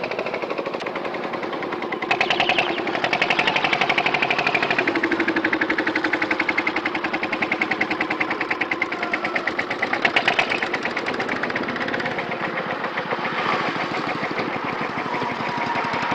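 A machine running with a rapid, even clatter and a pitched whine that shifts up and down.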